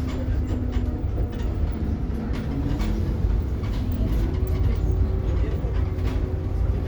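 Inside a moving Scania K360IB city bus: a steady low rumble from the rear-mounted engine and the road, with an engine drone that shifts in pitch and rises about halfway through, and scattered clicks and rattles from the bus body.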